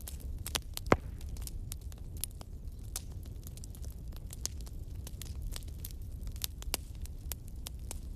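Fire crackling, with irregular snaps and pops over a steady low rumble of the flames; one sharp, louder pop about a second in.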